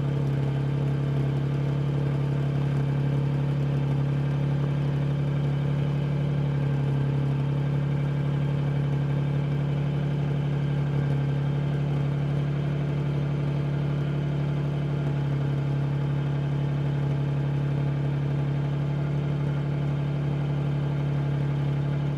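Toyota 7M-GE 3.0-litre inline-six idling steadily while it warms up after a cold start in freezing weather. The engine speed stays even and never changes.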